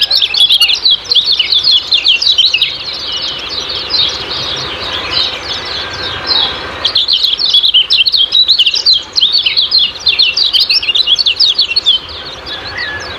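Kecial kuning, a white-eye, calling in fast, high 'ciak-ciak' chirps, each a short falling note, run together in rapid bunches with brief pauses between them.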